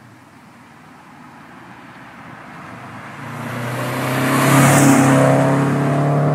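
2004 Subaru Liberty/Legacy's 2.0-litre flat-four running through Borla replica headers and an X-Force exhaust as the car is driven, its exhaust note growing steadily louder from about halfway in and loudest near the end as it nears the microphone.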